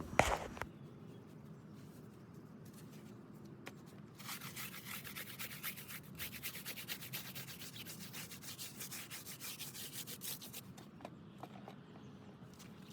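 Tire brush loaded with soap and water scrubbing a tire and rim in rapid back-and-forth strokes. The scrubbing starts about four seconds in and stops a couple of seconds before the end.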